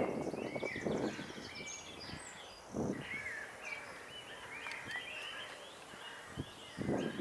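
Small birds chirping, many short overlapping calls. A few louder, lower calls stand out at the start, about three seconds in and near the end.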